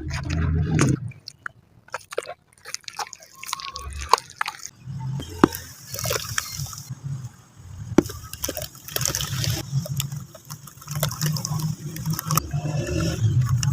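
Crumbly material being crushed and crumbled in water, with trickling, dripping and sloshing and a few sharp cracks.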